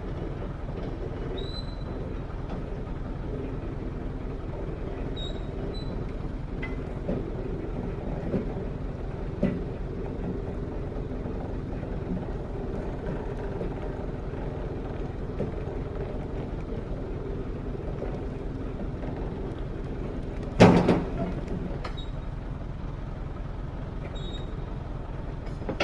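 Heavy machine engine running steadily, with a few scattered knocks and one loud clank about 20 seconds in.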